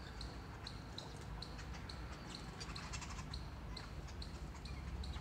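Small bird calling with a short high chirp repeated steadily, about three times a second, with other birds chirping irregularly behind it.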